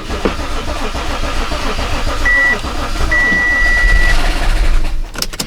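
Audi A8 D3 engine cranking on the starter for about five seconds without catching, on the first start after an engine rebuild: the fuel rail is still empty, so it does not fire. A steady high tone sounds twice in the middle, and the cranking stops abruptly near the end.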